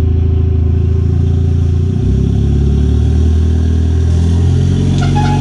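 Car engine idling steadily; its note shifts slightly about two seconds in, and a brief rattle comes near the end.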